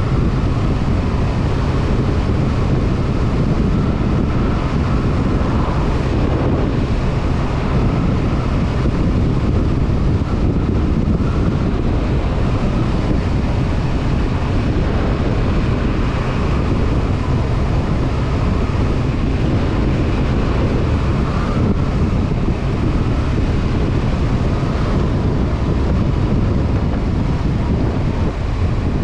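Honda CB500F's parallel-twin engine running at a steady cruise, mixed with wind rushing over the microphone.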